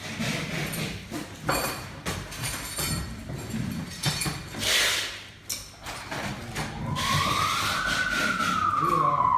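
A single siren-type wail, rising and then falling in pitch, starts about seven seconds in, over scattered clatter and background noise.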